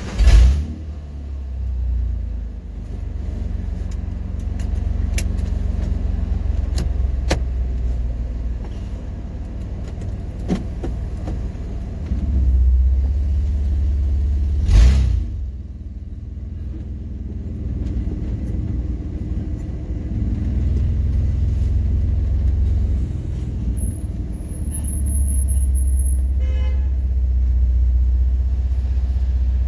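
1995 Ford F-150's engine running on straight open headers with the exhaust cut off: a loud, deep rumble that swells and eases in loudness. A sharp loud knock comes just after the start and another about 15 seconds in.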